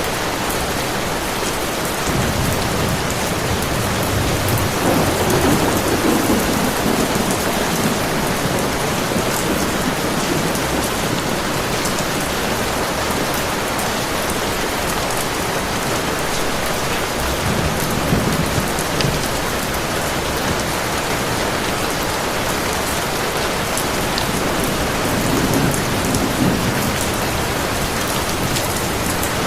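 Heavy rain falling steadily, with low rolls of thunder rumbling under it three times: a few seconds in, about halfway through, and near the end.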